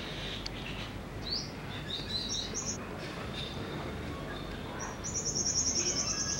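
Small birds calling: a few short, high, rising chirps in the first half, then a rapid high trill starting about five seconds in, over faint background noise.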